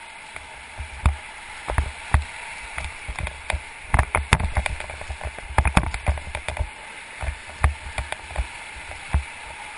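River water rushing steadily, with irregular splashes and sharp knocks, some deep thumps, against the raft.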